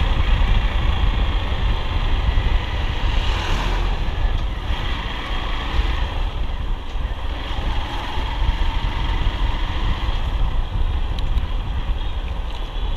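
Hero XPulse 200 single-cylinder motorcycle engine running steadily as the bike is ridden, with wind buffeting the rider's microphone.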